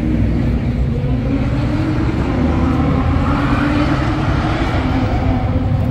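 Sports car engine rumbling, swelling briefly about three to four seconds in.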